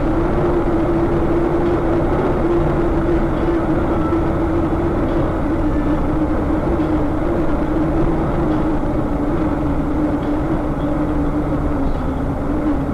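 Steady vehicle engine and road noise, with a droning tone that sinks slightly in pitch as it goes.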